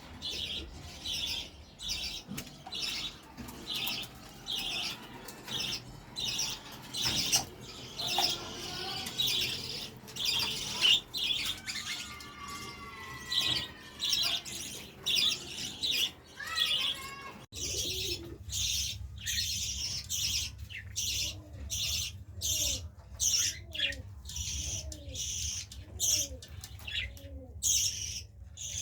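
Small cage birds chirping over and over at about two calls a second. After a cut about two-thirds of the way through, pigeons coo repeatedly over a steady low hum.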